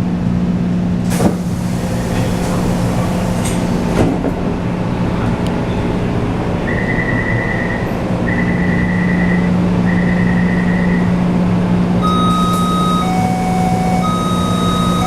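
Interior of a Taipei Metro C341 train: a steady low running hum with a couple of sharp clicks. About halfway through come three long beeps at one pitch, then a series of beeps switching between a higher and a lower pitch near the end.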